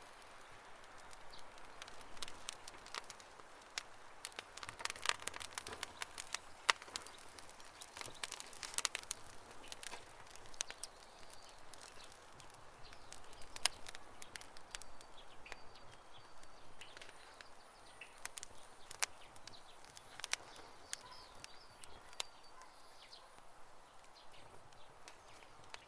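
Wood campfire crackling: irregular sharp pops and snaps of burning wood over a low hiss, busiest in the first half.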